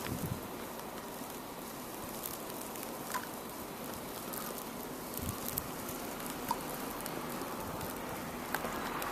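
Steady hiss of wind in a snowstorm, with a few faint ticks now and then.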